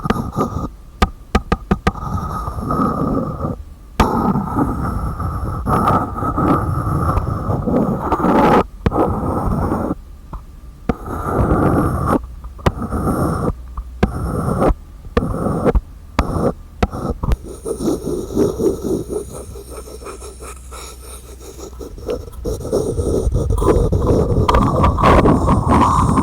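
Close-miked hands scratching and rubbing on containers and their lids, with sharp clicks and taps between stretches of scraping and a few brief pauses.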